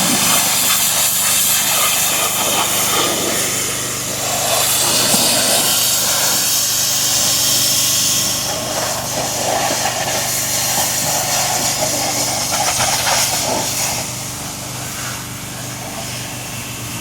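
Pressure washer spraying water in a steady loud hiss, with a motor humming steadily underneath.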